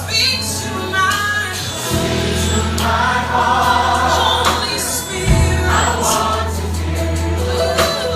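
Gospel choir singing with a live band: a steady bass and drums, with drum hits about two seconds in, about five seconds in and near the end.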